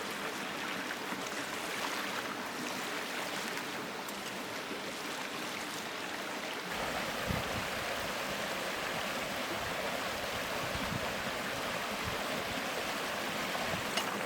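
Mountain stream rushing steadily near its source, with a deeper rumble joining about halfway through.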